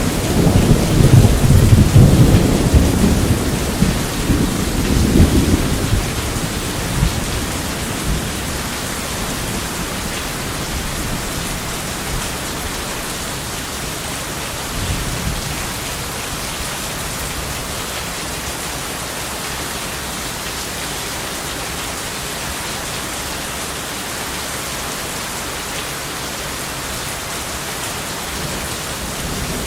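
Steady heavy rain with thunder: a long rolling rumble of thunder in the first few seconds dies away, leaving an even hiss of rain, with a faint distant rumble about halfway through.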